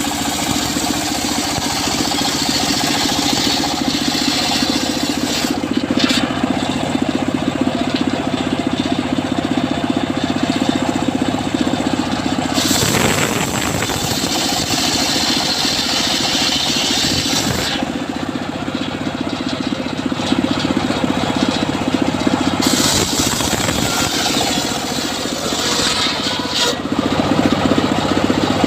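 Engine-driven homemade circular sawmill running steadily, its blade ripping teak, with a high hiss of cutting that comes and goes several times.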